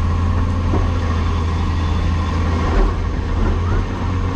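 Caterpillar 336E excavator's diesel engine running steadily with a deep, constant hum. There is a brief thump about three seconds in.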